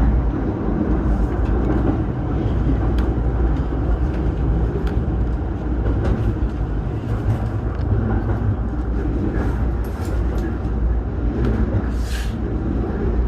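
Inside a JR East Kawagoe Line electric train: the steady low rumble of the running train, with faint scattered clicks and a short hiss near the end.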